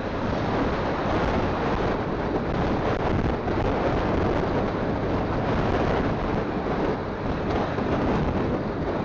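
Steady wind buffeting on a phone microphone while riding a motorcycle, with the bike's engine and road noise underneath.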